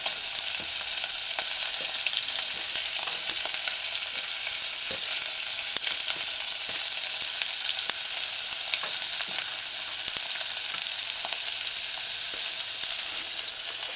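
Salted codfish chunks and chopped onion sizzling in hot coconut oil in a stainless steel saucepan, a steady hiss. Occasional light clicks and scrapes come from a spoon pushing the onion into the pan.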